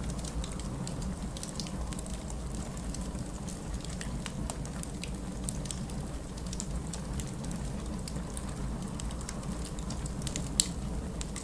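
Wood fire in a fireplace crackling, with irregular small pops over a steady low rumble. A sharper pop comes near the end.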